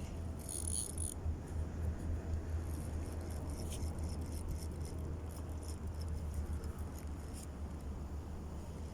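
Strong wind buffeting the microphone, a steady low rumble that rises and falls, with a few light clicks and rattles.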